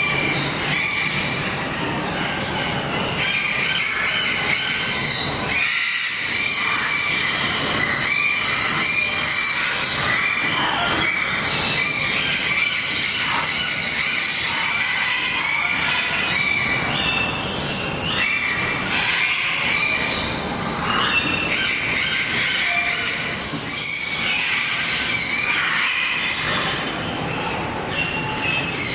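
Many small birds chattering at once, a steady mass of short, overlapping high chirps.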